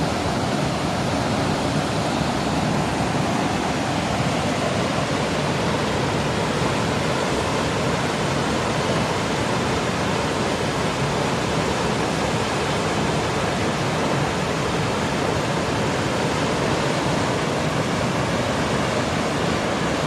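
Steady rush of water in a mountain gorge's stream, an even, unbroken noise.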